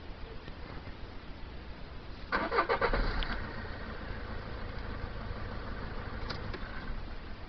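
Car engine started: the starter cranks briefly with a fast rhythmic chatter, the engine catches after about a second, then runs at a steady idle.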